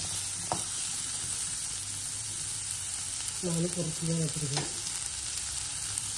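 Small onions frying in oil in a pan on a low flame, giving a steady sizzle while they are stirred, as they are sautéed until they change colour.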